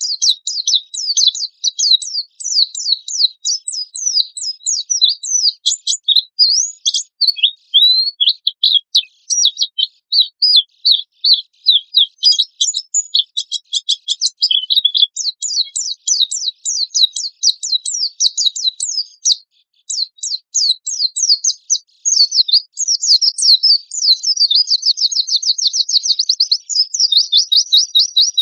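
A pleci (white-eye) singing hard: a fast, continuous run of sharp, high chirps and rattling note runs, used as lure song. It ends in a long, fast, even trill over the last five seconds.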